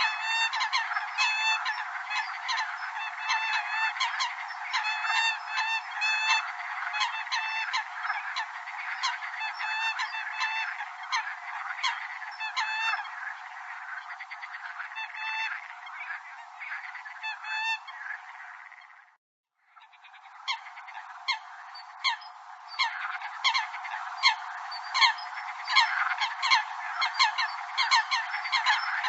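Eurasian coots calling: a rapid, continuous series of short pitched calls, thin-sounding with no low end. The calls cut out briefly about two-thirds of the way through, then carry on as before.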